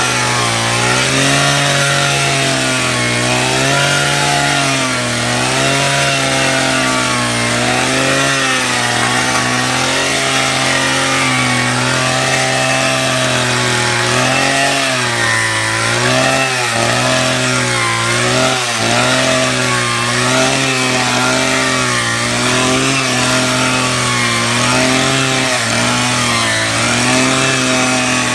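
Power drill running continuously under load, its motor pitch wavering up and down every second or two.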